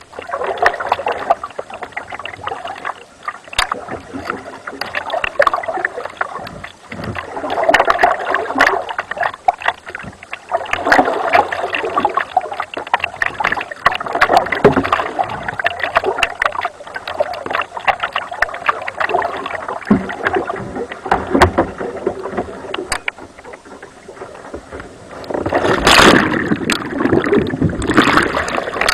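Water splashing and sloshing around a kayak and paddle in uneven surges, with scattered knocks. Near the end there is a louder burst of splashing.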